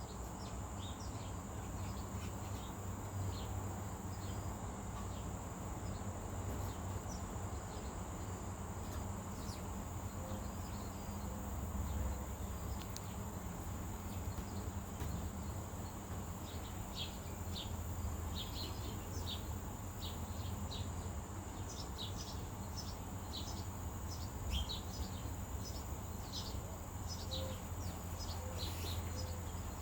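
A steady high insect drone, like crickets, with many short bird chirps scattered over it, coming thicker from about halfway on. A low rumble runs underneath.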